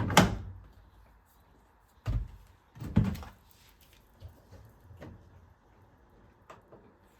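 Kitchen handling sounds: a few knocks and clunks, the loudest just after the start and about three seconds in, with lighter clicks later, like a cupboard door or items being set down.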